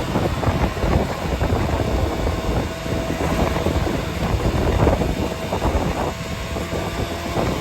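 Steady rumbling road noise of a motor vehicle on the move, with wind buffeting the microphone and a faint steady whine.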